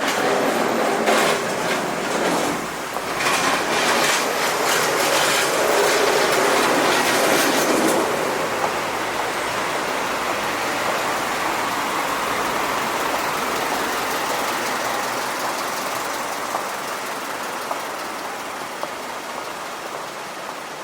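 A large vehicle going past, clattering and rattling for the first several seconds, then a steady rushing noise that slowly fades.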